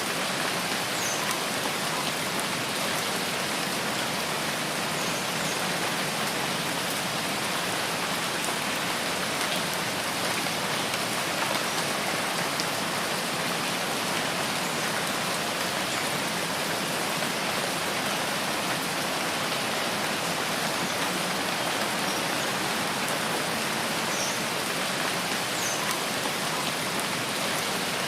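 Steady, even rainfall: a continuous hiss of many drops. A few faint, brief high-pitched notes come through now and then.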